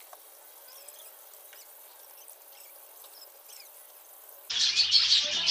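Faint, scattered chirps of small cage birds, then loud, rapid chirping and chattering that starts suddenly near the end.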